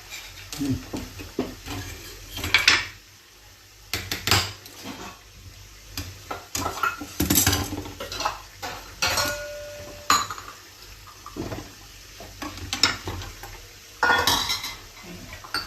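Kitchen utensils and cutlery clattering: pots, jars and spoons knocked and set down in irregular knocks and clinks.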